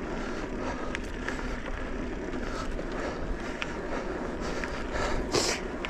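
Steady wind rush and tyre noise from riding along a dirt trail, with scattered small clicks and rattles.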